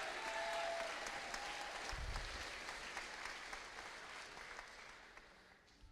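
Audience applauding in a school assembly hall after a student's name is called, a steady patter of clapping that dies away near the end.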